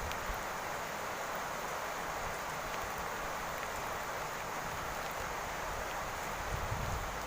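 Steady rain falling on a roof, an even hiss with faint scattered ticks, and a few low rumbles near the end.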